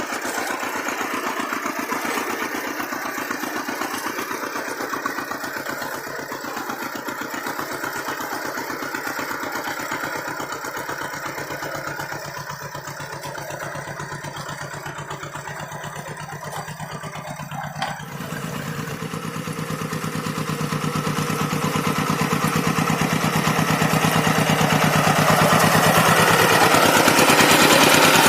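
Hand tractor's single-cylinder diesel engine running steadily while plowing a dry rice field, with a brief click about two-thirds in; the engine grows steadily louder over the last ten seconds.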